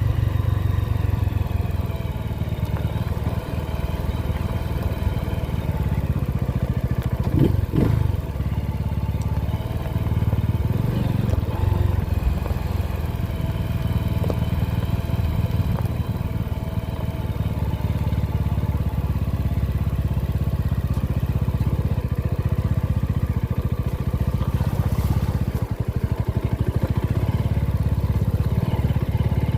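Motorcycle engine running steadily under way, its pitch shifting slightly as the revs change.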